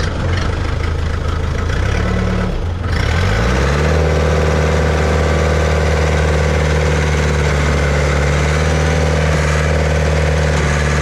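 An engine running at a low idle, then speeding up about three to four seconds in and holding a steady higher speed.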